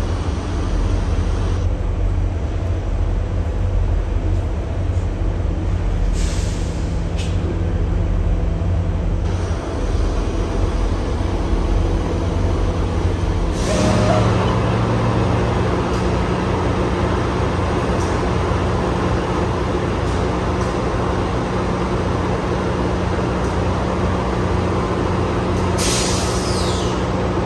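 A locomotive running steadily with a deep, even engine drone, with short hisses of released air about six seconds in and again near the end. About halfway through the drone steps up, louder and with a different note.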